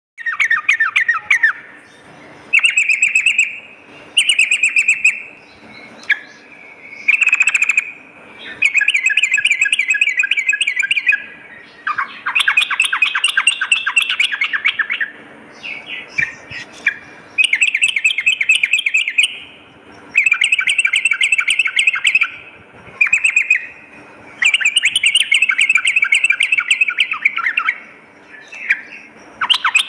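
Yellow-vented bulbul song: loud, rapid bubbling phrases of quick chattering notes, each lasting one to three seconds, repeated about a dozen times with short pauses between them.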